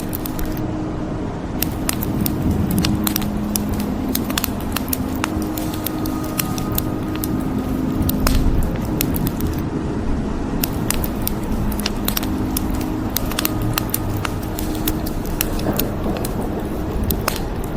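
Wood fire crackling, with many sharp irregular pops and snaps over a steady low rush of rain.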